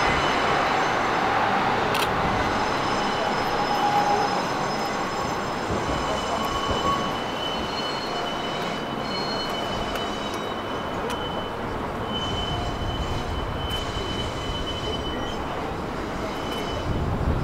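Oya 31 railway car rolling slowly on rails as it is pushed, its steel wheels giving thin, high squeals that come and go over a steady rumble, with a sharp click about two seconds in.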